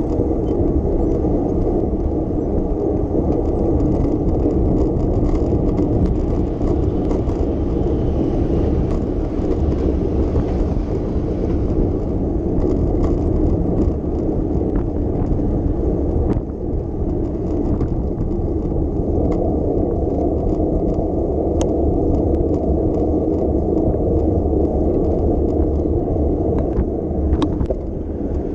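Bicycle riding along city streets: a steady low rumble from the ride, with a few brief sharp clicks and rattles.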